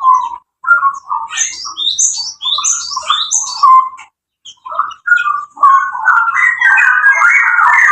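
Straw-headed bulbuls singing: short whistled phrases of quick, rising and falling notes with brief gaps between them, becoming a continuous run of stepping notes in the last couple of seconds.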